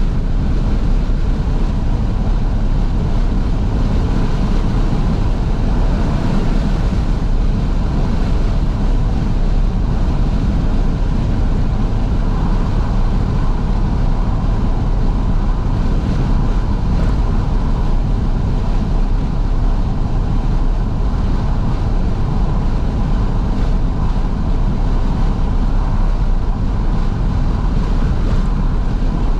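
Steady rush of wind and road noise inside a 2012 Fiat 500S driving along with all its windows wide open, the car's running sound under it.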